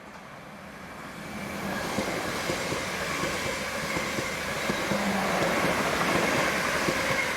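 Electric passenger train running into or through the station: its noise builds over the first two seconds, then holds as a steady rumble of wheels on rails with rapid clicks and a faint high whine.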